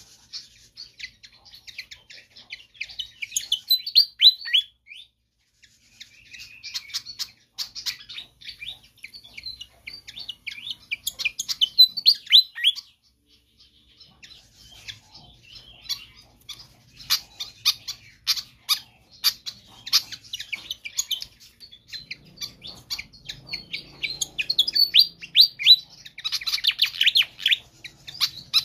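Fantail (sikatan kipas) singing energetically: rapid runs of sharp, high chirping notes in phrases a few seconds long, broken by short pauses.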